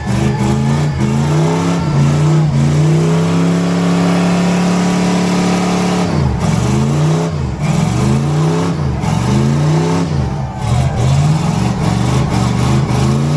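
Car engine revved hard through a loud exhaust: the revs climb, are held high for a couple of seconds, then fall and rise again several times about every second and a half.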